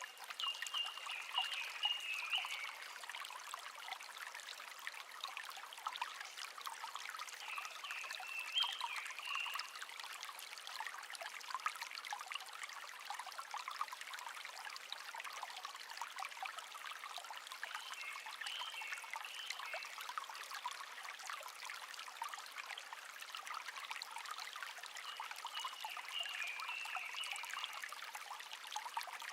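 Shallow stream trickling and babbling steadily, with a songbird singing a short phrase four times, roughly every eight to ten seconds.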